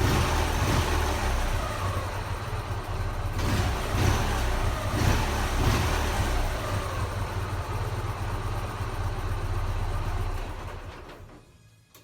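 Ural motorcycle's flat-twin engine running, with a few brief surges in the sound a few seconds in, then fading out near the end.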